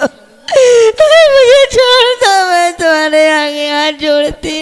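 A woman wailing loudly in pain as she is beaten with a stick. High, wavering cries drop in pitch after about a second and a half into one long held wail.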